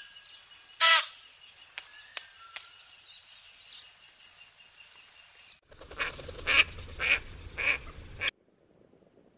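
Faint thin bird calls with one sharp, very loud burst about a second in, then a spot-billed duck quacking five times in about two and a half seconds.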